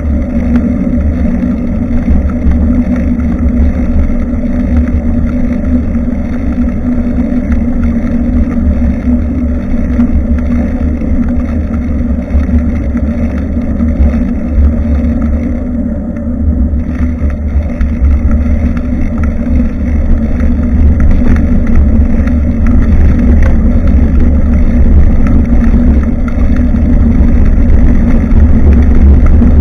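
Loud, steady wind rumble and road noise picked up by a bicycle-mounted action camera's microphone while riding, getting a little louder near the end.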